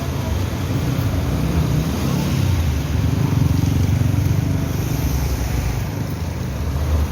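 Motor vehicle engine running with road noise, a steady low rumble.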